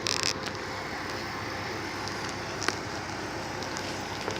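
Off-road vehicle engine running steadily, with a short hiss at the very start and a few faint clicks.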